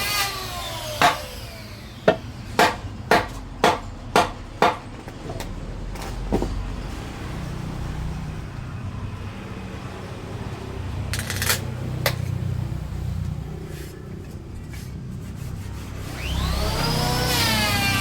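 A tool striking wood in a run of about seven sharp knocks, roughly two a second, then a few scattered clicks over a low rumble.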